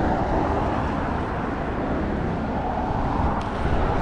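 Steady low rumbling noise with no clear tone or rhythm.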